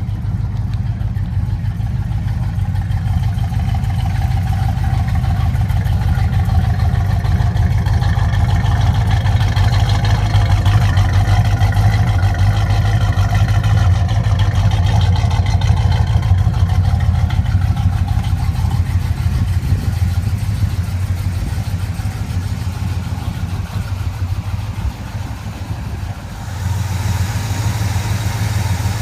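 1970 Pontiac GTO Judge's V8 engine running with a steady, deep exhaust rumble. The sound dips briefly near the end, then picks up again with more hiss on top.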